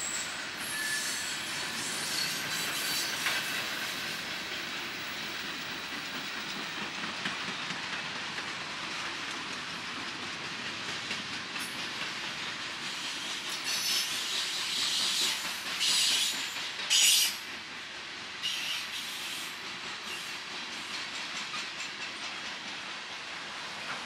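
A train rolling past on the rails, a steady noise of wheels on track. About two-thirds of the way through come several short bursts of high-pitched noise, the loudest around 17 seconds in.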